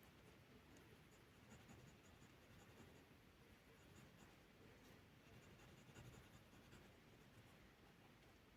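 Faint scratching of a drawing tool moving over paper, with light strokes and small ticks coming in clusters.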